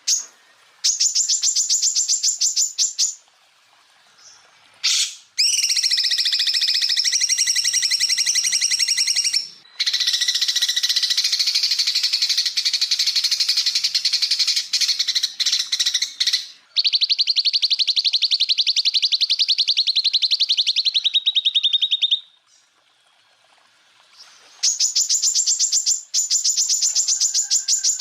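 Greater green leafbird (cucak ijo) song made of rapid 'tembakan' bursts: fast, evenly pulsed high trills and dense, varied phrases in long runs with short pauses between them. A high trill runs about 1 to 3 seconds in, varied dense song from about 5 to 16 seconds, and a slightly lower even trill until about 22 seconds. After a pause, another high trill starts near 25 seconds.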